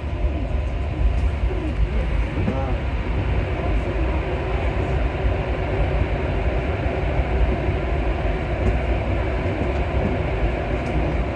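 Rubber-tyred Alstom MP14 metro train running through the tunnel: a steady, loud rumble of tyres and running gear with no break.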